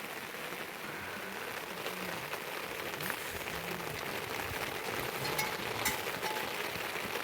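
Steady rain falling as an even hiss, with a few sharp drip-like ticks and faint low voices in the background now and then.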